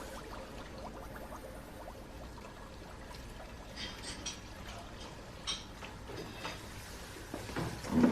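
Quiet room background with a few faint, light clinks or taps around the middle, as of small objects such as dishes being handled.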